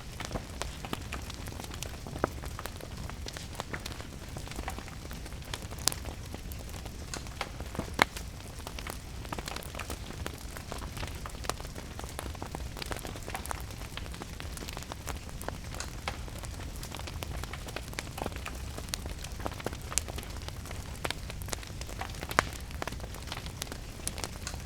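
Fireplace wood fire crackling, with sharp pops every second or so, the loudest about eight seconds in, over steady rain and a low rumble.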